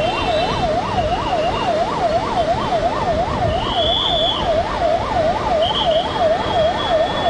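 Electronic vehicle siren wailing rapidly up and down, about three rises and falls a second, over a steady rushing noise.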